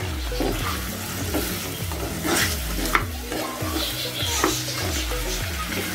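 Chopped tomatoes, onion and cashews sizzling in butter in a non-stick pan while a slotted spatula stirs and scrapes them, with a few sharp knocks of the spatula on the pan, the loudest about three seconds in. Background music with a repeating bass line plays under it.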